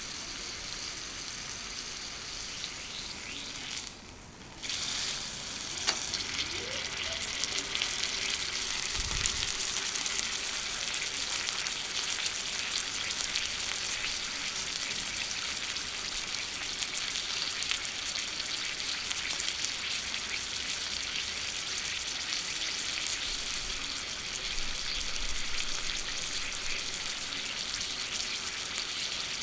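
Sirloin steak sizzling on a small iron griddle plate, a steady hiss full of fine crackling pops. The sizzle drops away briefly about four seconds in, then carries on.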